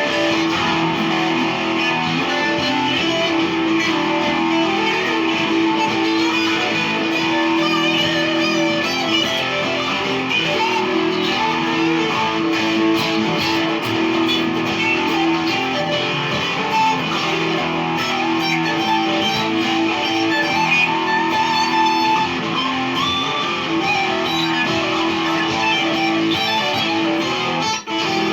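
Electric guitar playing a riff through a chain of EarthQuaker Devices pedals: a Warden compressor, Arrows boost, Cloven Hoof fuzz, Sea Machine chorus and Spatial Delivery envelope filter. The notes run continuously, with a brief break near the end.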